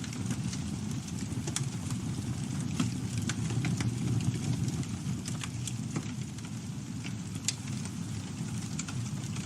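Campfire burning: scattered, irregular sharp crackles and pops of the wood over a steady low rumble of the flames.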